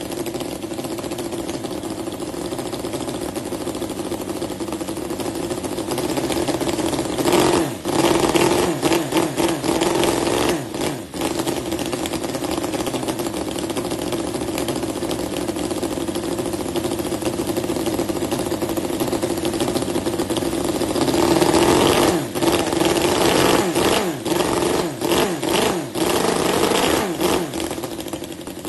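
Miniature four-stroke model engine running steadily, with two spells where its speed rises and falls as it is revved, about a quarter and about three quarters of the way through.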